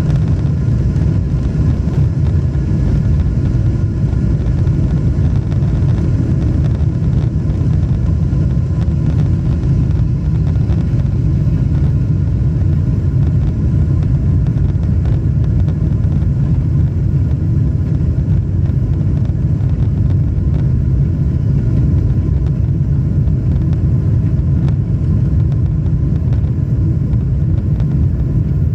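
Jet airliner cabin noise: the steady, loud low rumble of the engines and rushing air heard from inside the passenger cabin, with no change in pitch or level.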